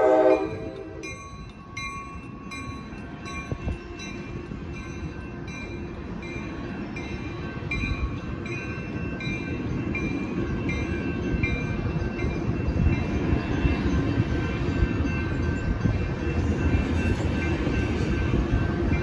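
A train horn chord cuts off about half a second in, then grade-crossing bells ring steadily in a repeating pattern while the low rumble of the ACE commuter train (Siemens SC-44 Charger locomotive with cab car leading) grows louder as it rolls up to and through the crossing.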